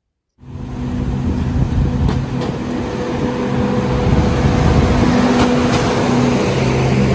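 A vehicle engine running steadily with a low hum, cutting in suddenly under half a second in, with a few faint clicks over it.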